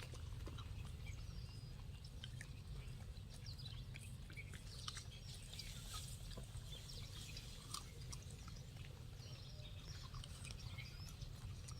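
Monkeys chewing apples: faint, irregular crunching clicks over a steady low rumble.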